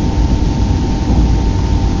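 Steady running noise inside an ICE 3 high-speed train's passenger compartment while it travels: a low rumble with a faint steady whine on top.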